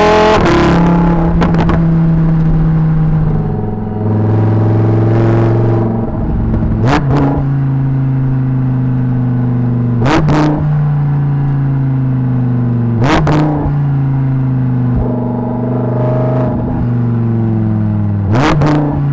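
Naturally aspirated 5.2-litre V10 of a Lamborghini Huracan EVO heard right at the exhaust, running with a steady note that sinks slowly in pitch. Sharp exhaust cracks break in five times, roughly every three to five seconds.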